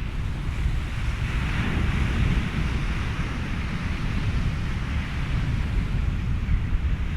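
Ocean surf and wind blended into a steady rushing noise with a deep low rumble; a wave washes in, swelling about a second in and easing off by about three seconds.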